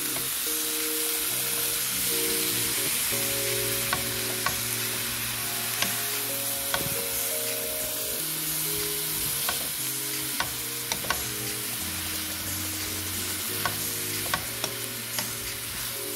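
Chicken and mixed vegetables sizzling in a stainless steel skillet as they are stirred, the utensil knocking against the pan about a dozen times. Background music with held notes plays underneath.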